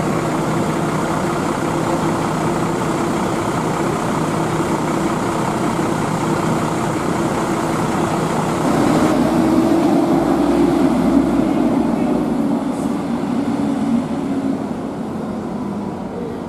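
Heavy rain falling steadily with bus engines running; about nine seconds in, a bus engine grows louder, then eases off again near the end.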